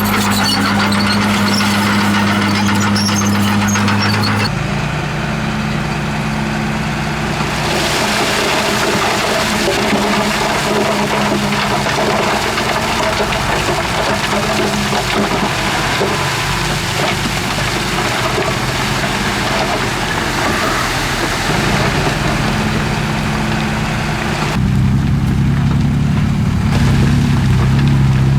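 Diesel engine of heavy earthmoving machinery working steadily, its pitch shifting with load about four seconds in and again near the end, where it drops lower and grows a little louder. High, scratchy sounds ride over it during the first four seconds.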